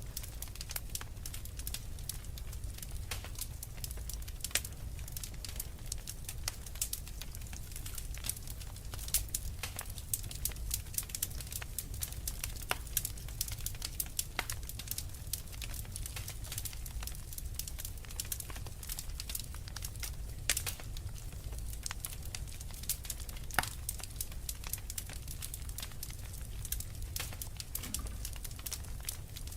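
Wood fire crackling in a fireplace: a steady stream of small sharp pops and snaps, with a few louder pops scattered through, over a steady low rumble.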